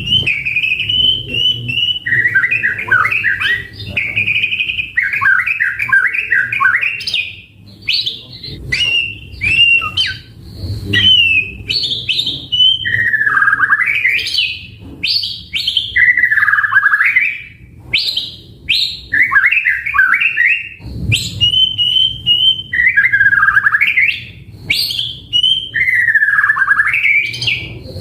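White-rumped shama (murai batu) singing on and on in loud, varied phrases: clear held whistles, rapid trills and swooping notes with short pauses between them. A faint low hum lies underneath.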